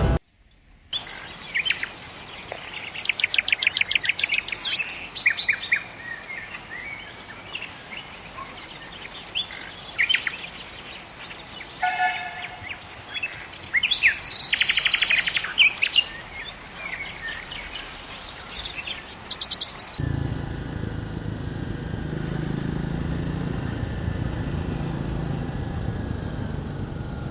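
Several birds calling and singing, with short chirps and fast trills. About twenty seconds in, this cuts to the steady low drone of a motorcycle riding along.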